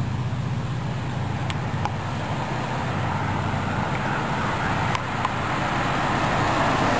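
Diesel locomotive engine running with a steady low rumble that grows louder over the last few seconds as the train approaches.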